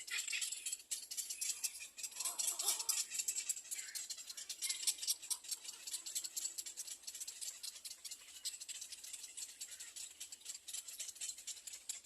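Little egret nestlings begging for food: a continuous, rapid, high-pitched rattling chatter.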